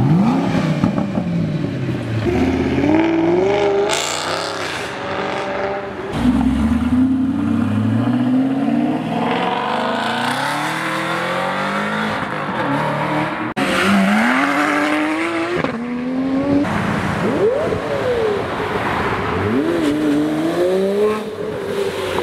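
Car engines accelerating hard in a run of short clips, each engine note climbing and dropping back at gear changes several times over.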